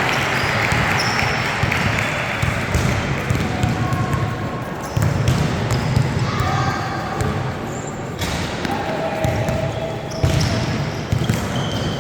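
Basketball being bounced on a gym court during a game, with crowd voices and shouts in a large echoing hall.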